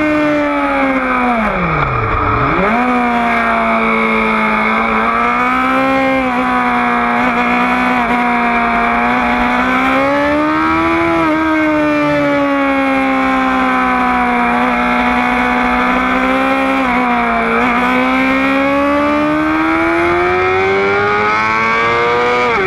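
Sport motorcycle engine at high revs, heard from the rider's seat on a race track. Its pitch sags as the throttle is rolled off and climbs as it pulls out of the corners, twice over, and drops sharply near the end as it shifts up, with wind rush underneath.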